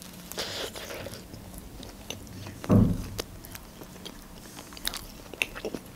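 Close-miked biting into a hot dog in a soft bun with lettuce, then chewing with soft wet mouth clicks. A short, louder low sound comes about three seconds in.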